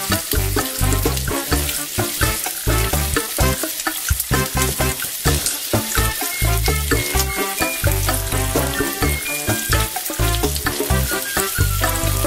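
Sliced onions and then vegetable sticks (carrots, potatoes) sizzling in hot oil in a pan as they are stirred and tossed with a wooden spoon, with background music with a steady beat playing over it.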